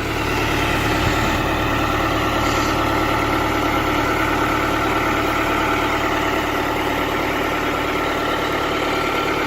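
A large engine running steadily at idle, a low even rumble with a thin steady whine above it.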